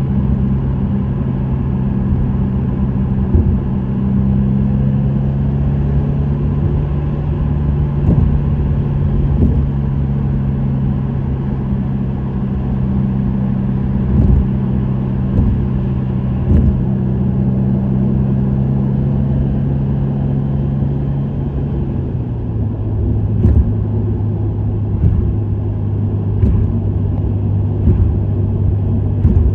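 Subaru WRX STI's turbocharged EJ20 flat-four running steadily at cruise through an STI Performance muffler, over low road rumble. About 22 seconds in, the engine note steps down to a lower pitch. A few short thumps come through.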